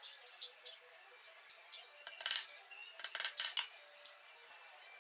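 Metal parts clinking and scraping as they are handled during lathe assembly, in two short bursts about two and three seconds in.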